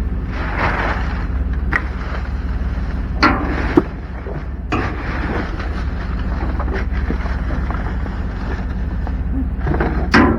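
A vehicle running with a steady low rumble, with a few brief sharp knocks or clicks.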